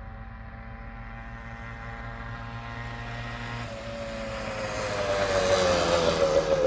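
Yamaha DT125 two-stroke single-cylinder dirt bike engine running as the bike rides closer, getting steadily louder to a peak about five to six seconds in, its note dropping slightly near the end.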